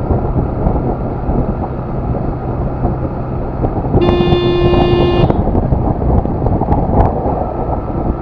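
Steady wind rush and road rumble while riding a motorcycle, with a single vehicle horn blast lasting about a second, roughly halfway through.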